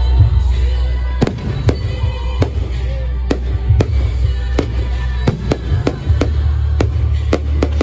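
Fireworks display: aerial shells bursting in a rapid, irregular series of sharp bangs, about two or three a second, over a steady low rumble.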